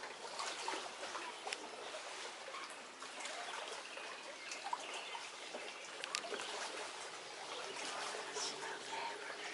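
Small waves lapping and trickling at the lake's edge, a steady wash of water sound dotted with many little irregular splashes and ticks.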